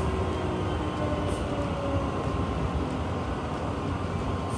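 Sanyo Electric Railway train running, heard from inside the cab: a steady rumble of wheels and running gear, with faint tones in the motor noise drifting slightly lower in pitch.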